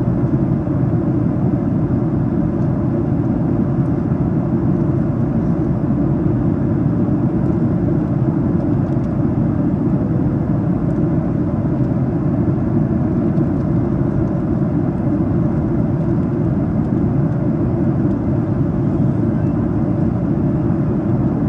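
Steady cabin noise of a Boeing 737-800 in cruise: an even, deep rush of airflow and engine noise that holds constant throughout.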